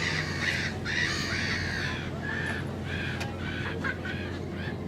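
Gulls calling over and over in short, harsh cries, several overlapping, above a steady low hum.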